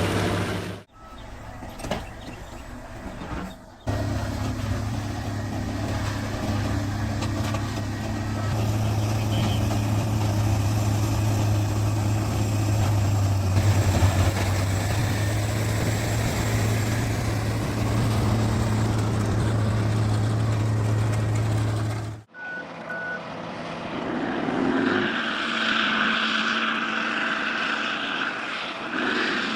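Heavy machinery running: a big engine with a steady deep hum and grinding noise over it, broken by abrupt cuts about a second in and near four seconds, and changing about three quarters of the way through to a different, higher-pitched mechanical noise.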